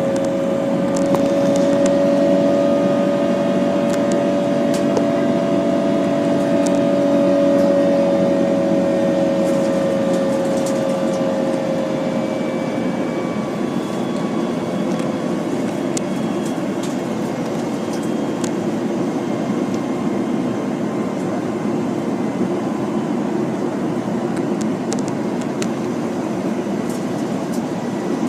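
Airbus A330-300 engines and airflow heard inside the cabin: a steady rushing hum with a pair of engine tones that fade out about halfway through, and faint rattles from the cabin.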